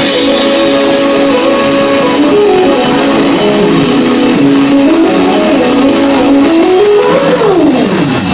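Synthesizer music: held notes stepping through a melody, then a long falling pitch sweep near the end.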